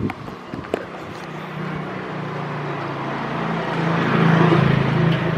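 A motor vehicle passing close by in the street: its engine drone grows louder over the last few seconds and is loudest about four and a half seconds in.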